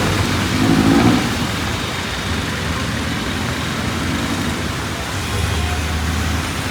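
Heavy rain with a steady hiss, over street traffic: motor vehicle engines running past, loudest in the first second and again from about four and a half seconds in.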